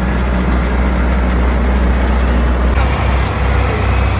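Farm tractor engines running with a steady low drone as tractors pass; the engine note shifts about three seconds in.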